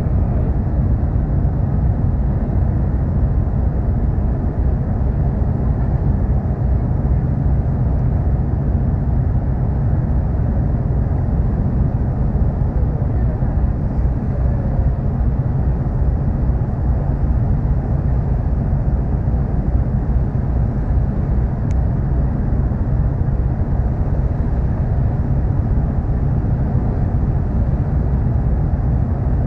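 Car ferry Kuniga's engines running at cruising speed, a steady low drone with a hiss of water and air over it that does not change.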